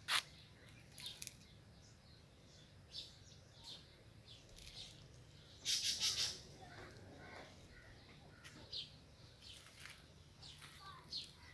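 Small birds chirping in short, scattered calls, with a louder run of chirps about six seconds in. A sharp click sounds right at the start.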